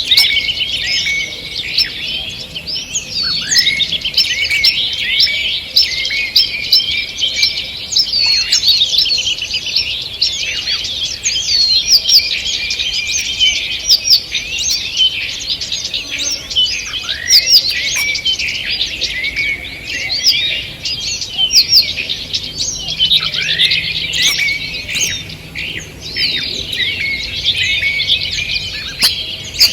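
Dawn chorus of many songbirds singing at once: dense overlapping chirps, trills and quick sweeping whistles without pause.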